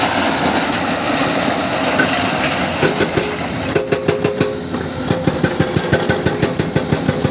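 Heavy excavator's diesel engine running. About three seconds in, a fast, regular knocking starts, roughly six knocks a second, and carries on.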